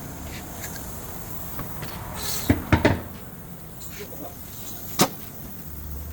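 A few sharp knocks and clacks from handling tools and brake parts: three close together about two and a half seconds in, and a single one about five seconds in, over a steady low background.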